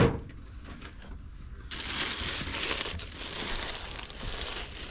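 Packaging crinkling and rustling as a new trolling motor is unwrapped from its box. It starts about two seconds in, after a single short knock at the start.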